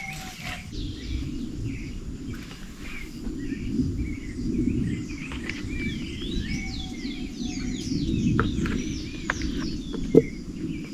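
Many birds chirping and calling, with short chirps and quick sweeping notes throughout, over a steady low rumble. A single sharp knock about ten seconds in.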